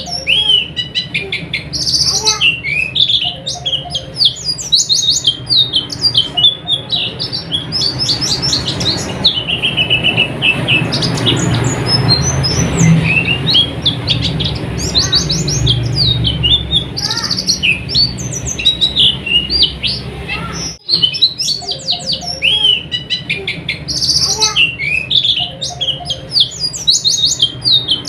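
White-eye (pleci) singing a rapid, continuous twittering song of high chirps, with a brief break about 21 seconds in and a low rumble underneath in the middle stretch.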